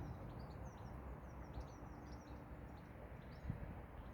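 Small birds chirping, a steady run of short high calls, over a faint low rumble.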